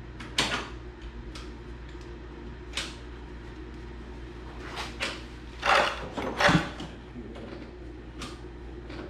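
Steel parts being handled and knocked together: scattered metallic clanks and knocks, two louder ones just past the middle, over a steady low hum.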